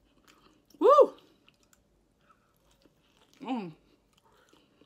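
A woman exclaims a loud rising-and-falling "Woo!" about a second in, then chews a sauce-soaked fried chicken sandwich with faint wet mouth clicks, giving a brief falling hum about three and a half seconds in.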